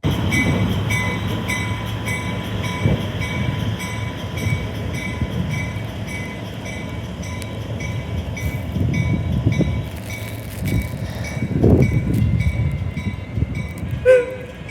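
Train running, with low rumbling that swells and eases, over a ringing ding that repeats about twice a second. A short sharp tone sounds near the end.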